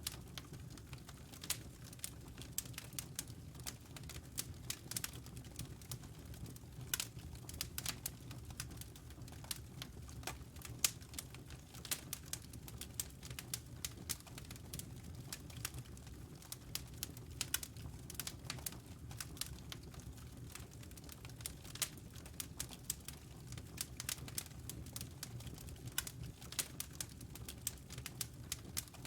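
Wood fire crackling in a fireplace: irregular sharp pops and snaps, several a second, over a steady low rumble from the burning logs.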